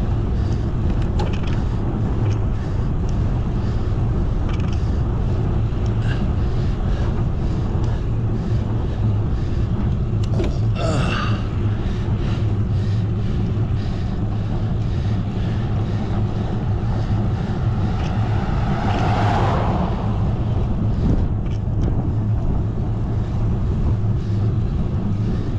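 Wind rushing over the camera microphone on a moving bicycle, a steady low rumble with road noise. A brief swell that builds and fades comes about three-quarters of the way through.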